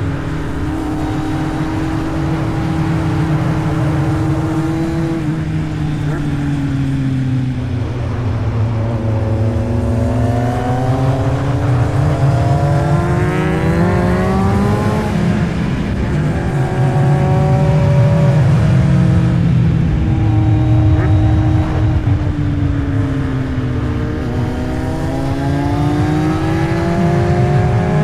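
Motorcycle engine running under way, its pitch sinking and climbing again as the throttle and speed change. The steepest climb comes about halfway through, then the pitch drops sharply, over a steady rush of wind and road noise.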